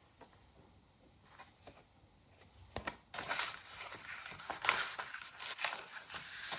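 Paper rustling and crinkling as the pages, pockets and paper inserts of a handmade junk journal are handled, starting with a sharp tap about three seconds in after a quiet stretch.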